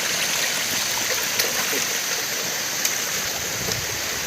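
Steady rushing of water from a stream or waterfall, with a few faint sharp ticks.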